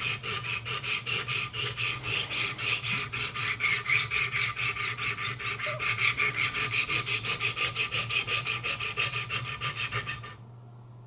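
Rapid, even strokes of Wicked Edge sharpening stones scraping along the steel edge of a Benchmade 725 Kodiak Skinner blade, several strokes a second, stopping about ten seconds in. The edge is being ground to raise a burr.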